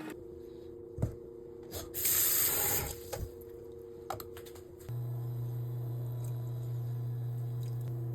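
Kitchen sounds: a few light clicks and knocks, a short burst of running water lasting about a second, then a steady low hum that starts about five seconds in.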